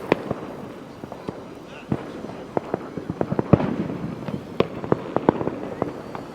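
Fireworks going off: many sharp bangs and cracks in quick, irregular succession, thickest in the second half, over a steady background of more distant noise.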